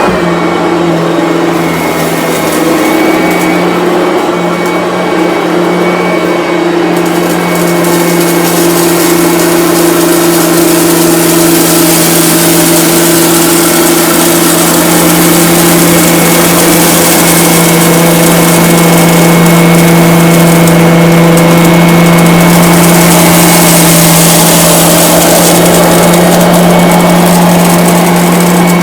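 Bissell BigGreen Commercial upright vacuum cleaner running at full speed, a loud steady motor hum with a rushing hiss, as it sweeps up rice scattered on a carpet. The hiss grows louder after about seven seconds.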